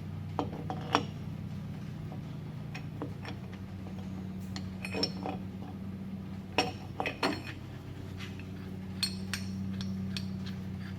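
Metal tools and hardware clinking and knocking as they are handled, in scattered irregular strikes, loudest about a second in and in a cluster around six to seven seconds in, over a steady low hum.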